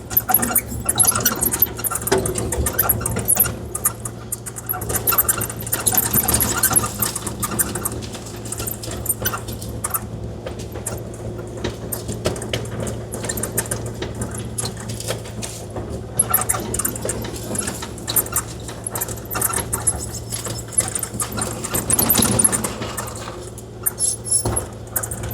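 Kubota KX040-4 mini excavator's three-cylinder diesel running steadily, under a busy clatter of gravel rattling and scraping as the bucket grades loose driveway rock. The clatter swells in the first few seconds and again near the end.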